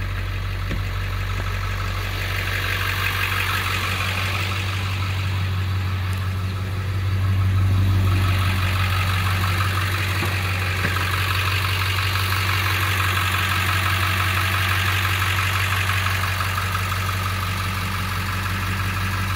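Ford 7.3L Power Stroke V8 turbo diesel idling steadily, a low even hum that swells briefly about seven seconds in.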